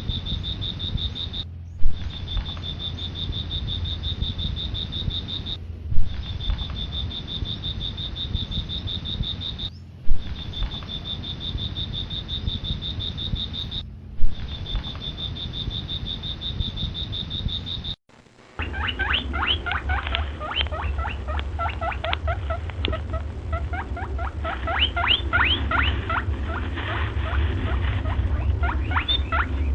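Recorded animal calls in two clips. First comes a steady, high-pitched trill broken every four seconds by a loud click and a short gap, as the clip loops. About two-thirds of the way in it cuts to a different animal's rapid, high squeaks and chirps.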